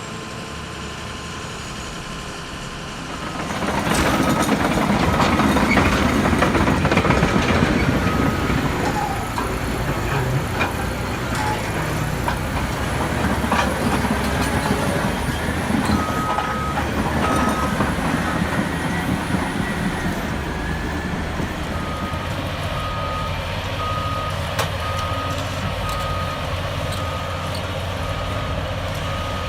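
A heavy vehicle's reversing alarm beeping about once a second over engine and machinery noise. The machinery noise rises about three to four seconds in and eases after about twenty seconds.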